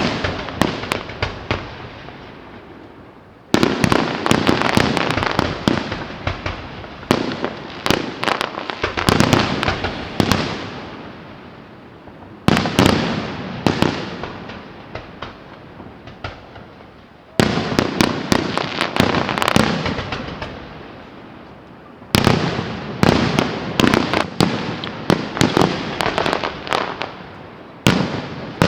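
Fireworks display: volleys of shells bursting with sharp bangs and crackling, each volley starting suddenly and fading over a few seconds, a new one about every five seconds.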